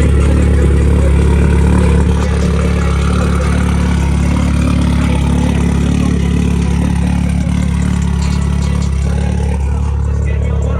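Car engine idling close by, a loud, deep, steady drone that eases slightly about two seconds in.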